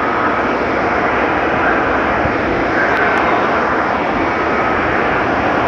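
Dryers of a D&S IQ touch-free car wash blowing, a loud, steady rush of air.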